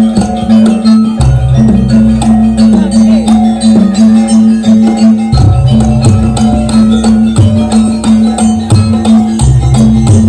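Live jaranan ensemble music: rapid struck metallic percussion over drums, with a held tone underneath and a deeper layer that drops out and returns.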